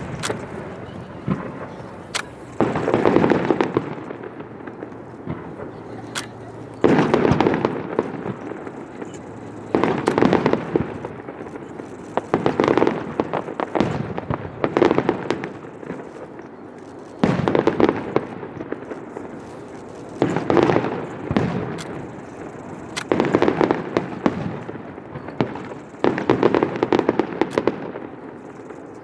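Aerial fireworks shells bursting one after another, about every two to three seconds; each bang trails off over about a second, with a few sharp single cracks in between.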